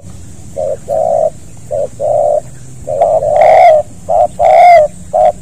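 Spotted dove cooing: a run of low coo notes, each short note followed by a longer one, getting louder from about three seconds in.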